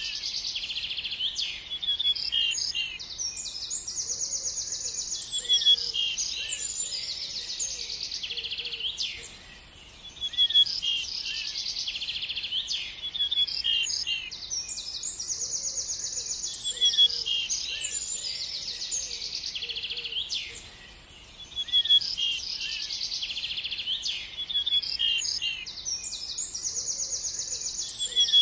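Songbirds chirping and trilling: quick high chirps, sweeping notes and rapid buzzy trills. The same stretch of song repeats about every eleven seconds, each time after a brief lull.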